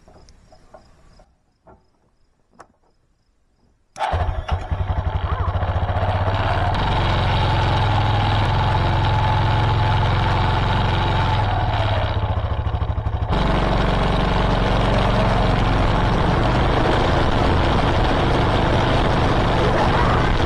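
A White LT 946G lawn tractor's engine being tried after 15 years standing: a few faint clicks, then about four seconds in the engine suddenly turns over loudly and keeps going with a steady pulsing beat, changing abruptly about thirteen seconds in.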